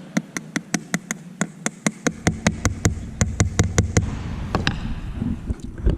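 Hammer tapping a nail in with quick, light, evenly spaced strikes, about five a second for some four seconds, then a few slower taps near the end.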